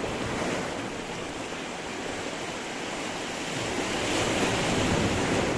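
Sea waves breaking on stones, a continuous wash of surf that swells to a louder crash near the end, with some wind on the microphone.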